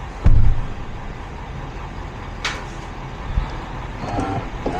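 A vehicle engine idling with a low, steady rumble. A heavy thump comes about a third of a second in, and a sharp click about halfway through.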